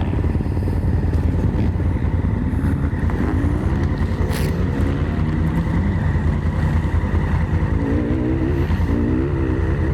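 Honda Africa Twin's parallel-twin engine idling steadily. From about three seconds in, a higher engine note wavers up and down over it.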